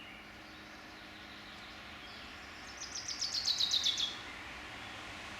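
A songbird sings one quick trill of about a dozen notes, stepping down in pitch and growing louder, lasting just over a second and stopping abruptly about four seconds in. A faint steady hiss of forest ambience lies underneath.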